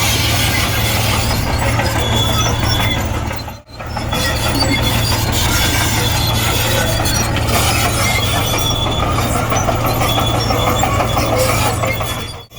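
Komatsu D58E crawler bulldozer working, a steady diesel drone with high squealing and clanking from its steel tracks. The sound drops out for a moment about four seconds in.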